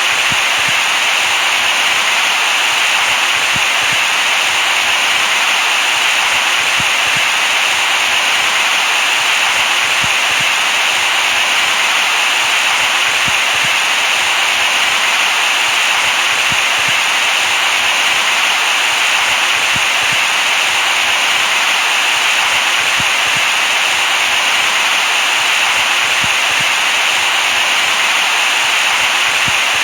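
Steady, unbroken white noise hiss, brightest in the upper range, played as a baby-soothing sleep sound.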